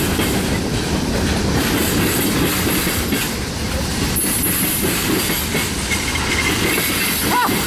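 Norfolk Southern mixed freight train rolling past, its wheels clattering over the rail joints under a steady rumble.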